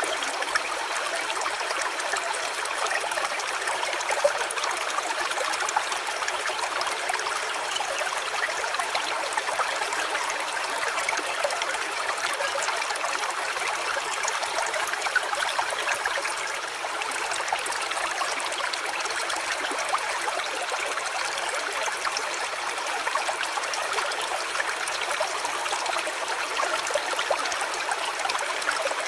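Small stream trickling and babbling steadily.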